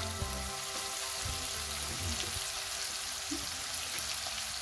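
Ground meat with diced peppers, onion and tomato sizzling in a frying pan while it cooks: a steady, even hiss.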